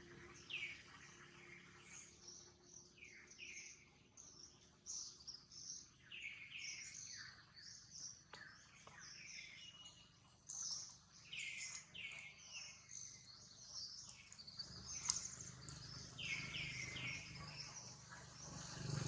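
Faint birdsong: many short high chirps and downward-sweeping whistles, some coming in quick pairs and threes. A low rumble comes up in the last few seconds.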